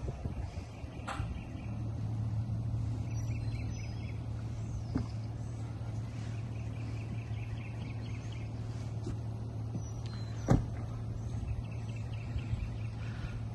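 An engine idling with a steady low hum, with birds chirping repeatedly over it and a sharp knock about ten seconds in.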